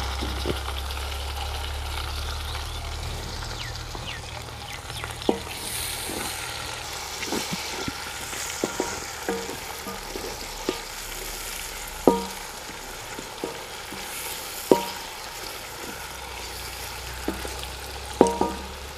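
Onion, tomatoes and green chillies frying in mustard oil in an aluminium wok, sizzling steadily as a wooden spatula stirs them. About a dozen sharp knocks of the spatula against the metal pan ring out along the way.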